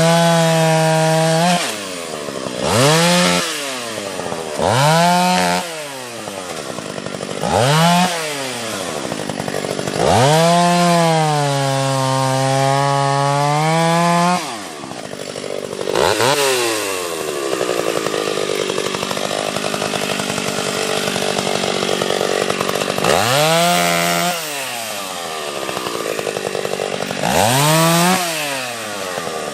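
Husqvarna two-stroke chainsaw bucking a felled pine tree into sections. The engine revs up to full throttle for each cut and drops back to idle between cuts, about eight times, with one longer cut of about four seconds in the middle.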